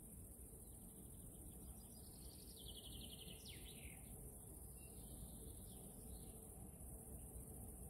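Small songbirds singing faintly in short trills and chirps, including a quick downward-sweeping note about three and a half seconds in, over a steady low outdoor rumble and hiss.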